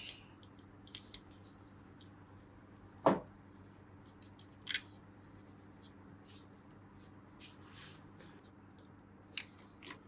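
A few light clicks and taps of small metal engine parts being handled and fitted by hand, spread over several seconds, the loudest a little after three seconds in.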